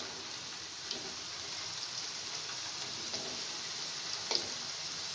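Minced-meat kofta balls frying in hot oil in a nonstick pan, a steady sizzle as more balls are added, with a few faint clicks and pops, the sharpest about four seconds in.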